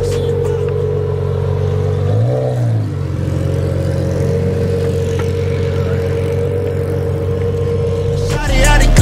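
Lamborghini Murciélago's V12 idling steadily, with one short throttle blip about two seconds in that rises and falls in pitch. Music cuts back in near the end.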